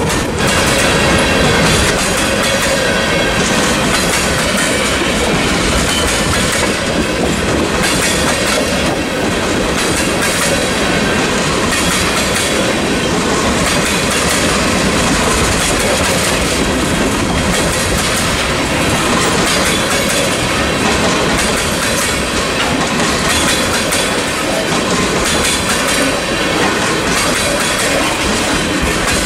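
Freight cars, loaded bulkhead flatcars and tank cars, rolling past on steel wheels: a steady rumble of wheels on rail with repeated clicking as the wheels pass over rail joints.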